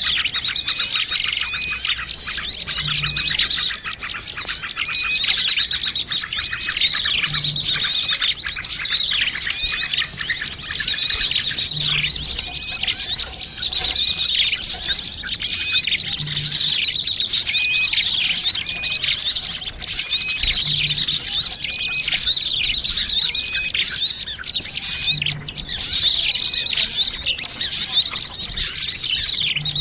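Dense, unbroken chirping and twittering of many small birds calling over one another. It is a bird-lure recording, played to draw small birds in.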